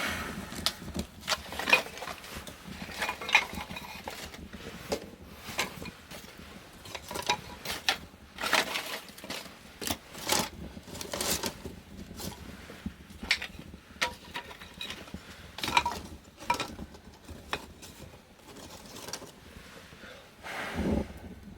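Firewood crackling and popping as it burns in the firebox of a wood-fired bath heater, in irregular sharp cracks, with a brief low rumble near the end.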